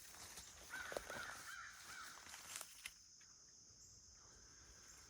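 Crows cawing faintly: a quick run of several caws in the first half, then only a faint steady high hiss.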